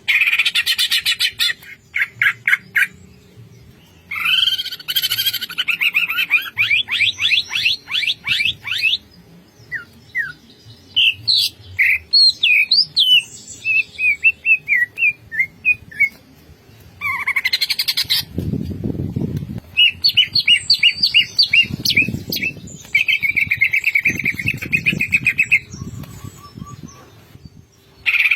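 A cucak ijo (green leafbird) singing loud, varied song phrases: fast runs of sharply repeated notes, warbling glides and chattering trills, broken by short pauses. Low muffled sounds come in under the song three times in its second half.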